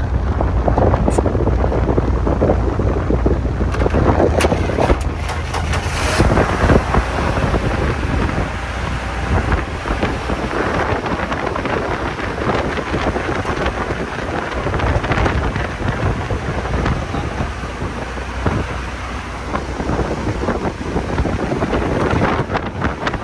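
Wind buffeting the microphone over a low rumble, a loud rough noise with no clear rhythm.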